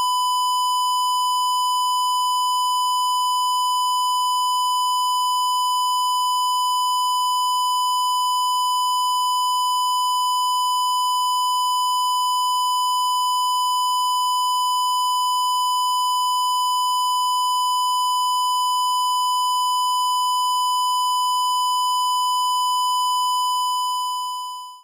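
A continuous, high-pitched electronic beep tone held at one unchanging pitch, with a buzzy edge, fading out just before the end.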